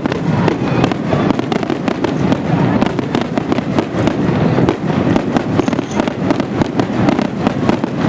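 Aerial fireworks going off in a rapid, continuous barrage: many bangs and crackles overlapping, densely packed, with a steady rumble underneath.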